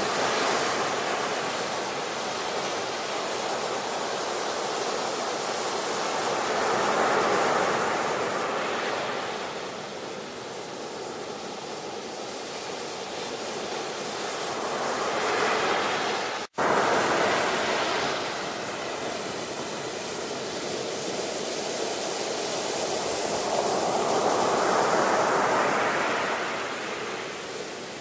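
Ocean waves breaking and washing up on a shore in slow swells, each surge building and fading about every eight seconds. There is a split-second dropout to silence about two thirds of the way through.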